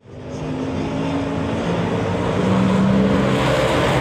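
Monster truck engines running loud and revving on the track, the sound fading in quickly at the start, with the engine pitch climbing and holding strong about two seconds in.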